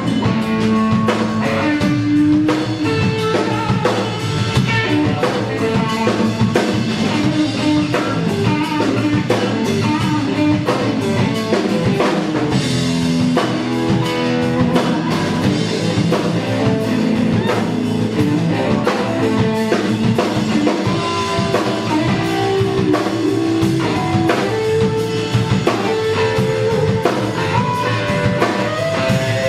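Live rock band playing an instrumental riff-rock tune on guitar, bass and drum kit, steady and loud.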